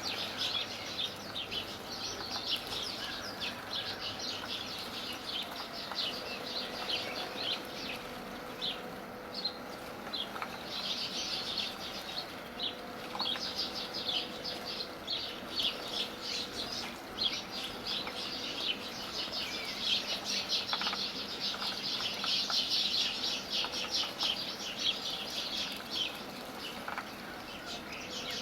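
Sparrows chirping: many short, high chirps in quick, overlapping succession, busiest in the second half.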